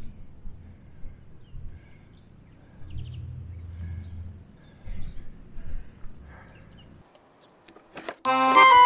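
Faint outdoor ambience with a low rumble and a few faint bird chirps and clicks, then background music starts suddenly near the end.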